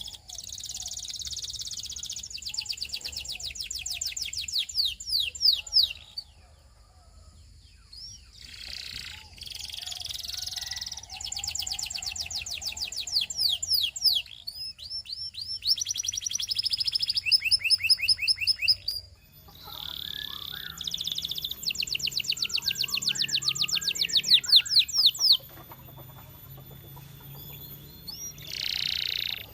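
Russian canary singing in long phrases of fast trills, rolls of short repeated notes and buzzy passages. The phrases are broken by pauses of a second or more.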